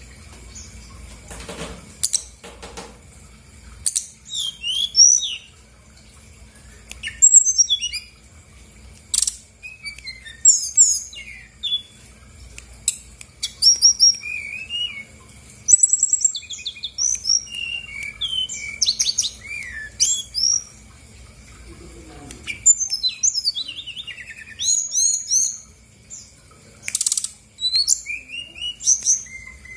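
Brown-chested jungle flycatcher singing: bursts of rapid, varied chirps, whistles and trills, repeated every second or two with short pauses between phrases.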